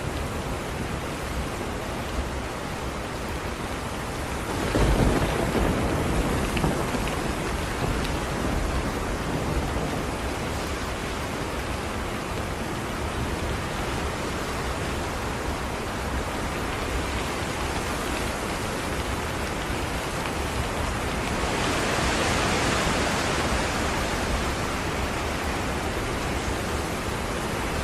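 Steady rain with a low rumble of thunder about five seconds in, and the rain swelling heavier for a few seconds near the end.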